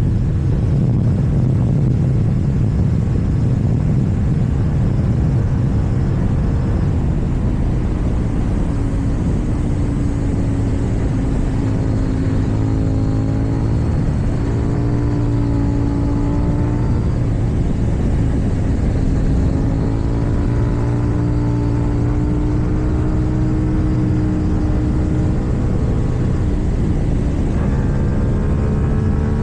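KTM 790 Duke's parallel-twin engine, fitted with an Akrapovic exhaust, running under way on the road, its note rising and falling gently with the throttle.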